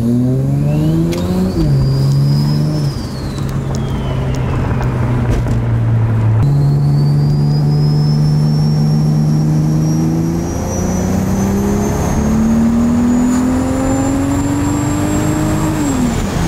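Ford Barra turbocharged inline-six in a Toyota Supra, heard from inside the cabin as the car pulls through the gears. The revs climb and drop at a shift about a second and a half in, hold steady, jump up about six seconds in, then climb slowly until another drop near the end. A thin high whine rises and falls with the revs.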